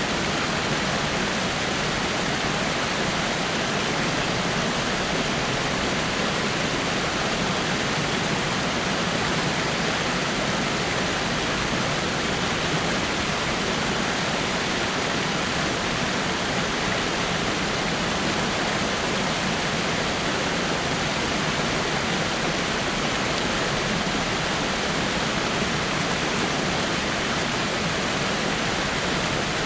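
Small rock waterfall, water falling and splashing steadily over rocks in an even rushing hiss.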